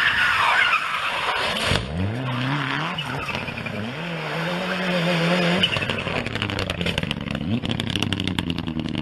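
Rally car engine revving up and holding high revs, with tyre and gravel noise. The sound changes abruptly about two seconds in, and a rapid crackling comes near the end.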